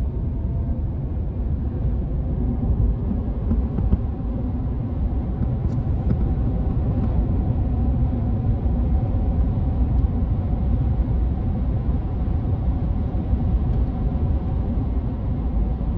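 A vehicle driving along at a steady pace: a continuous low engine and road rumble.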